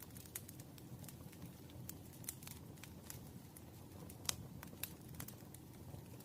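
Campfire crackling: irregular sharp pops of burning wood over a low, steady rumble of flame, with the loudest pop about four seconds in.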